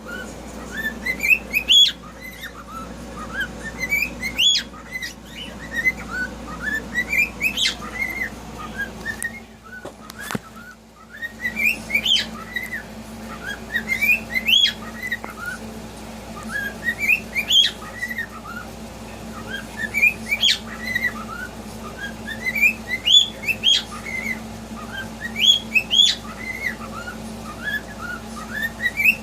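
Pet cockatiel whistling the same short tune again and again, a run of rising notes ending in a high peak, repeated about every three seconds. A steady low hum runs underneath.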